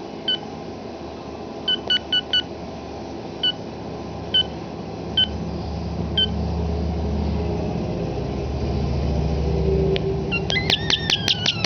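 European starling mimicking electronic beeps: about nine short beeps at one fixed pitch, some in quick pairs and threes, under a low rumble that swells in the middle. Near the end it gives a quick run of clicks with falling whistles.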